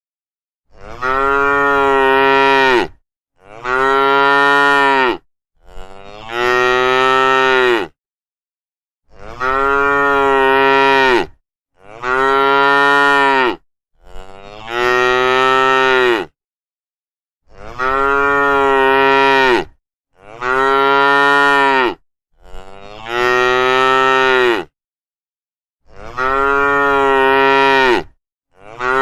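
Cattle mooing: about eleven long, near-identical moos, one every two to three seconds, with dead silence between them.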